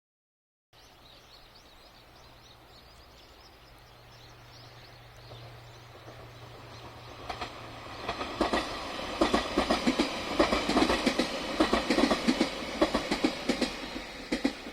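A train approaching and passing, faint at first and growing louder, its wheels clattering rhythmically over rail joints in a rapid run of clacks as the cars go by.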